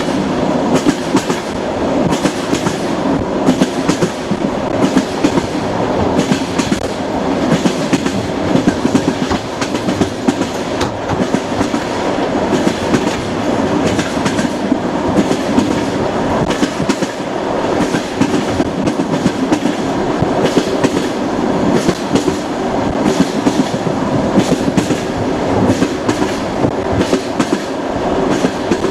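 Moving train: a steady rumble with frequent, irregular clicks of the wheels running over the rail joints.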